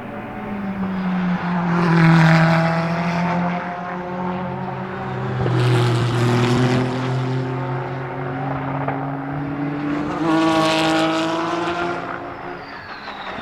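Ferrari 488 GTE race car's twin-turbo V8 at high revs on track, swelling loudly three times about four seconds apart as it passes, with the engine note holding steady and dropping in pitch midway.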